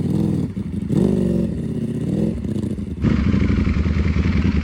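Ducati Panigale V4's V4 engine through a loud aftermarket exhaust, revving up and down under throttle on a climb. About three seconds in it settles into a steadier pull, and a hissing noise joins it.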